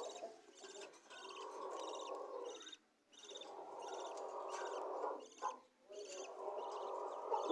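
Budgerigar chicks giving long, raspy food-begging calls, broken off briefly twice. Short high chirps repeat over them about two to three times a second.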